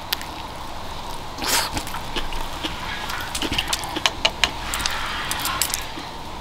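Close-up mukbang eating sounds: a crunchy bite about a second and a half in, then a run of short wet clicks and smacks of chewing.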